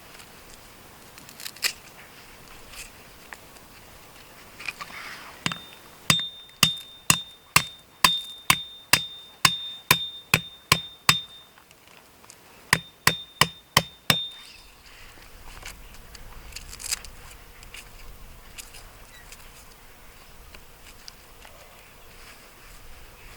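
Metal struck repeatedly with a hammer, about two ringing blows a second, a dozen in a row. After a short pause come five more quicker blows.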